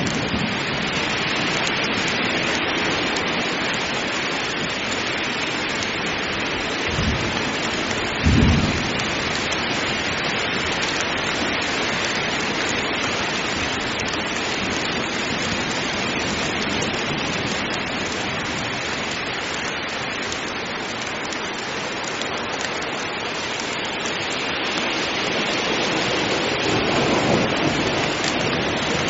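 Heavy rain falling steadily in a dense, even hiss. Two short low thumps come about seven and eight and a half seconds in, and a low thunder rumble builds near the end.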